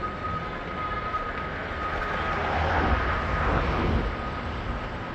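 PATH commuter train running, with a steady high whine over a low rumble; the noise swells for a couple of seconds in the middle and then eases off.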